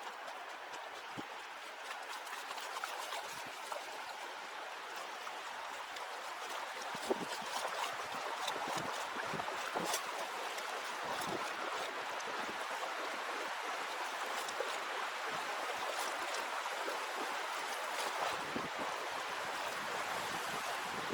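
River water rushing over rocks, a steady wash that grows gradually louder, with scattered faint clicks.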